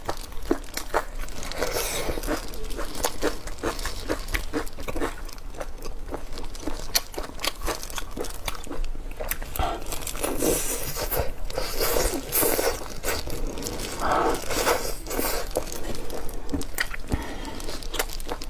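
Close-miked eating: crunchy bites and chewing, full of irregular sharp crackles and snaps.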